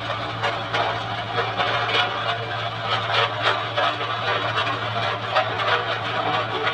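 Heavy road-construction machinery running steadily with a low diesel engine hum, overlaid by frequent irregular clicks and clatter.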